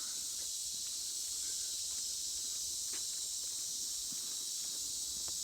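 Steady, high-pitched chorus of swamp insects droning without a break, with a few faint footsteps.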